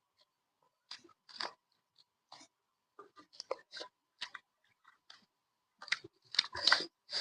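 A person chewing food close to the microphone: irregular wet mouth clicks and smacks with short pauses, louder and denser near the end.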